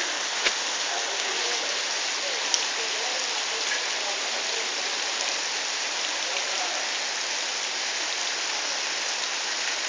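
Steady rain falling, an even hiss of drops throughout, with two brief sharp clicks about half a second and two and a half seconds in.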